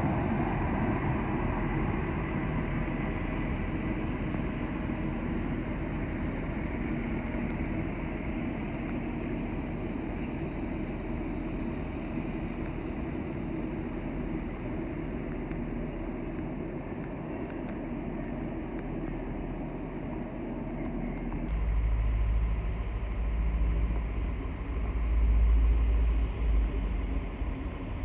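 A train running through the station with a steady rumble and hum that slowly eases off. About 21 seconds in, the sound changes abruptly to a deep low rumble that swells and fades.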